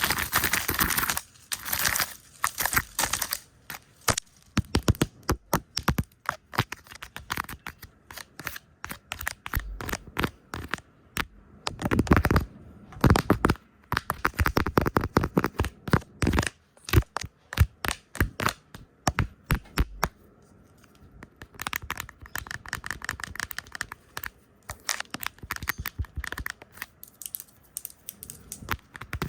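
Fast, irregular ASMR tapping and brushing close to the microphone: rapid sharp taps and clicks with occasional rustling brush swipes, heard as hand and lens sounds.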